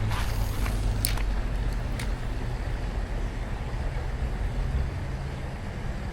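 Steady low rumble with a hiss over it, and a few light clicks in the first two seconds.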